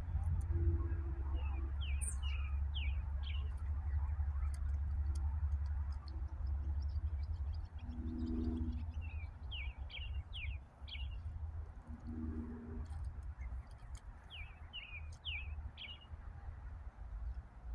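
Wild birds singing: a songbird repeats a short phrase of four or five quick high notes three times, and a few low cooing calls come in between, over a steady low rumble.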